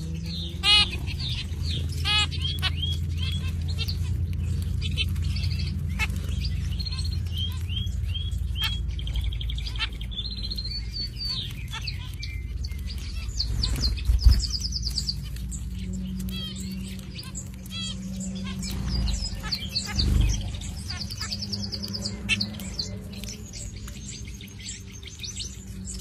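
Small birds chirping: many short, high chirps, some in quick runs, over a steady low rumble, with a couple of dull bumps partway through.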